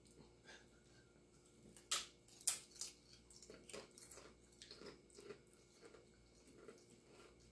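Potato chips being bitten into, with two sharp crunches about two seconds in, then steady crunchy chewing.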